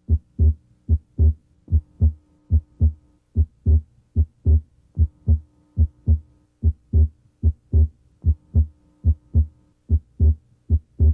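Heart sounds heard through a stethoscope's diaphragm at the left sternal border: a steady rhythm of paired first and second heart sounds (lub-dub), a little over one beat a second, over a faint steady hum.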